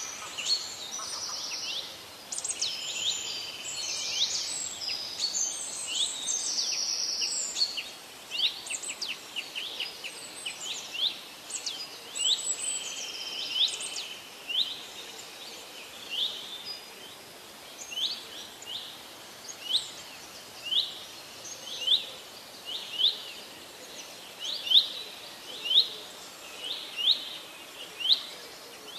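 Wild birds singing and chirping: several overlapping songs and trills for the first half, then one bird repeating a short, sharp chirp about once a second over a faint steady background hiss.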